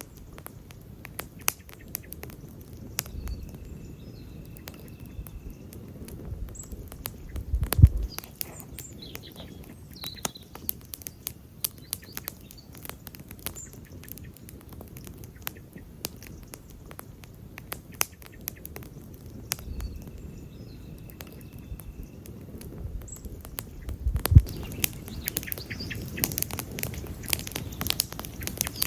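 Wood campfire crackling steadily, with quick irregular snaps and pops over a low rumble of flame. Two louder pops stand out, about eight seconds in and again near the end.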